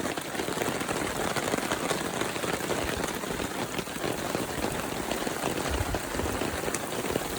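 Heavy, steady rain falling, the patter of countless drops holding at an even level.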